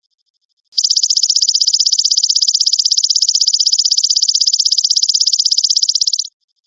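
Belalang emas (golden grasshopper) singing: a loud, rapidly pulsed high-pitched trill of roughly fifteen pulses a second that starts about a second in and stops shortly before the end, with a faint thin high buzz before and after it.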